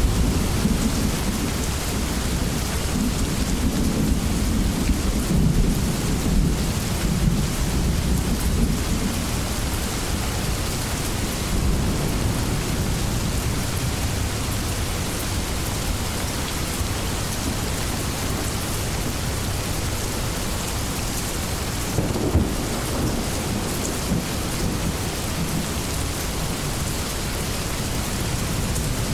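Steady heavy rain with rolling thunder: low rumbles swell through the first ten seconds or so, and a shorter rumble comes about 22 seconds in.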